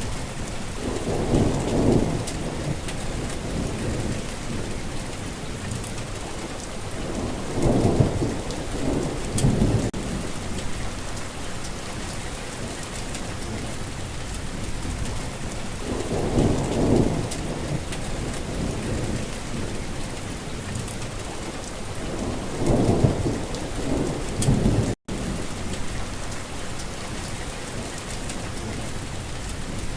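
Steady heavy rain falling, with rolls of thunder rumbling low every six to eight seconds, five in all. The sound cuts out completely for an instant a little before the end.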